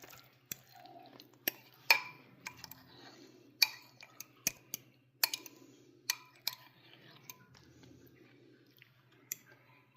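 Eating from a plate: irregular sharp clinks and taps against a dish, about fifteen over several seconds, with chewing between them.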